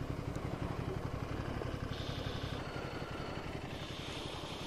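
Ducati Scrambler Sixty2's air-cooled 399 cc L-twin running at low revs with an even, low pulsing beat as the motorcycle slows and stops.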